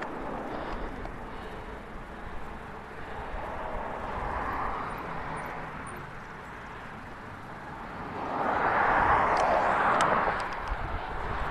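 Steady rushing of wind and tyres on a bicycle ride, with a louder rushing swell that rises and fades from about eight to ten seconds in.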